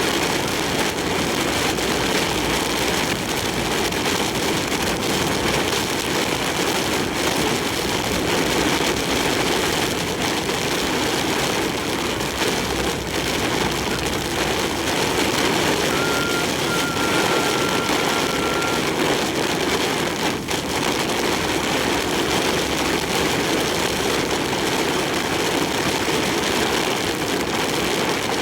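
Steady wind and rain noise inside a large truck's cab at expressway speed in a typhoon, with engine and road noise underneath. A steady electronic beep sounds for about three seconds a little past the middle.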